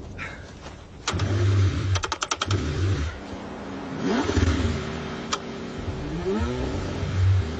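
Cold car engine being cranked over, catching and stumbling with uneven surges of revs that rise and fall, and a quick run of sharp clicks about two seconds in.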